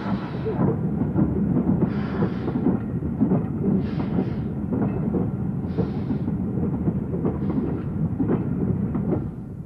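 A steam train running slowly: a low rumble and rattle of wheels and wagons, with bursts of steam exhaust hiss about every two seconds.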